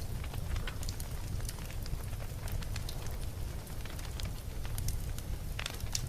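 Wood campfire crackling, with many scattered small pops over a low steady rumble and a sharper snap near the end.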